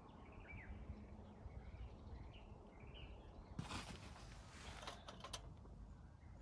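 Faint, short bird chirps over the first three seconds, then a brief rustle and a couple of light clicks.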